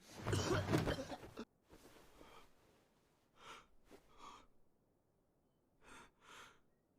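A person breathing: two pairs of short breaths in and out in the second half. Before them, in the first second and a half, comes a louder, noisy sound.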